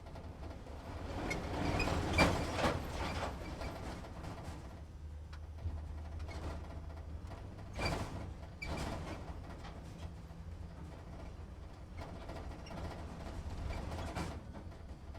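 Truck engine rumbling low and steady, heard from inside the cab, with the cab creaking and rattling in bursts a few times.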